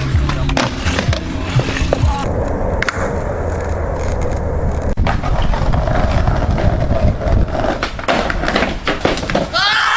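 Skateboard wheels rolling on pavement, with repeated sharp clacks and knocks of the board and trucks striking the ground. Near the end a person yells.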